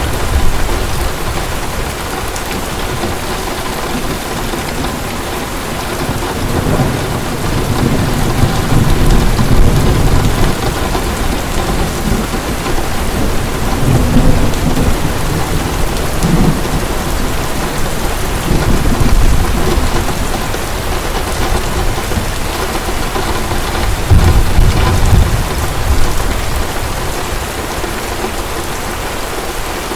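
Heavy rain pouring steadily, with low thunder rumbles swelling and fading several times.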